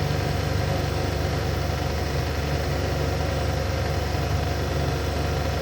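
Connecting-rod cap grinder running steadily, its motor and grinding wheel giving a constant even hum.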